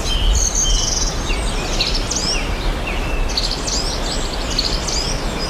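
Outdoor ambience: several birds chirping and calling in quick short notes over a steady rushing background noise.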